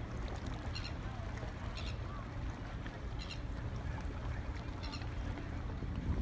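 A bird calling from the harbour, a short high-pitched call repeated every second or so, over a steady low rumble of wind on the microphone.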